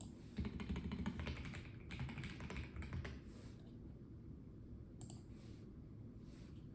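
Typing on a Melgeek Mojo84 plastic-cased mechanical keyboard: a quick run of key clicks in the first half, a pause, then a short burst of keystrokes about five seconds in.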